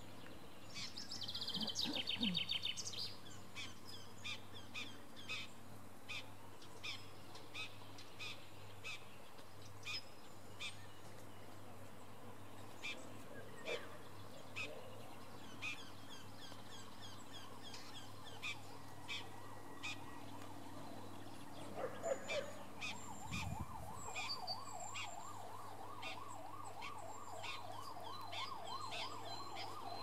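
Songbirds chirping in short repeated calls, with a quick trill about a second in. From about two-thirds through, a distant siren rises and falls steadily under the birdsong.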